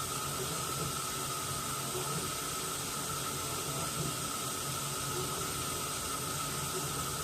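Washing machine running: a steady hiss with a low hum and a steady high whine held throughout.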